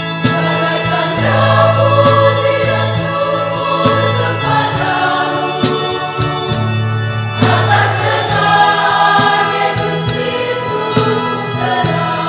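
Church choir of a Catholic village congregation singing a hymn in several parts, with long held chords.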